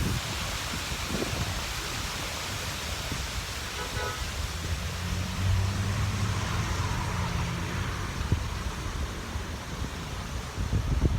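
Outdoor traffic: a vehicle passing with a low steady engine hum, and a short car horn toot about four seconds in, over a steady hiss.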